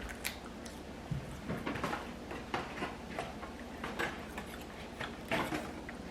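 Eating and food-handling sounds: a scattered series of small clicks, taps and light scrapes, like a utensil and a takeout container being handled.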